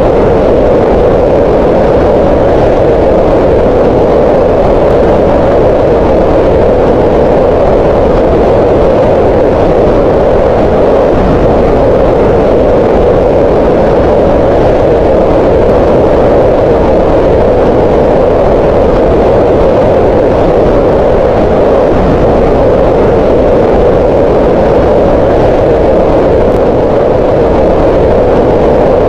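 Green noise: a loud, steady, even hiss that is strongest in the middle pitches. It has no tones, rhythm or changes.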